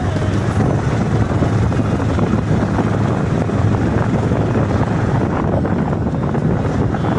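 Wind buffeting the microphone over a steady low rumble of a moving vehicle.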